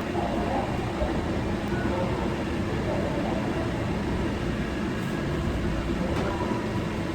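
Kitchen range hood fan running with a steady, even hum.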